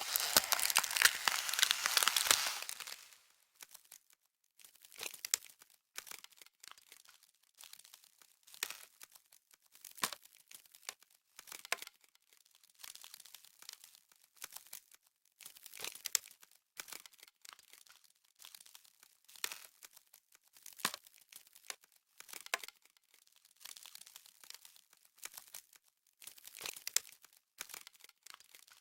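Frost sound effect: crisp crackling and crunching, dense for the first two or three seconds, then short scattered crackles about once a second.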